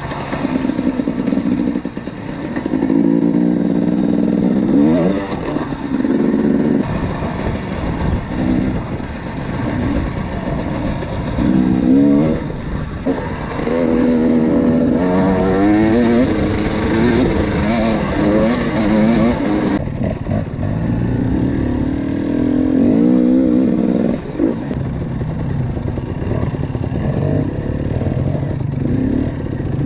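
Enduro motorcycle engine under way, its pitch repeatedly rising and falling as the rider opens the throttle and shifts gears.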